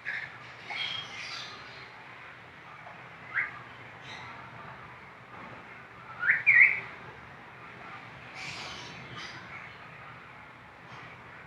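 A small bird giving a few short, rising chirps and squawks, spaced seconds apart, the loudest a quick pair about six seconds in.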